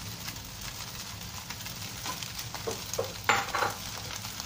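Fried rice sizzling in a wok as cut green beans are tipped in and stirred with a wooden spatula. A few short knocks and scrapes come through, the loudest about three seconds in.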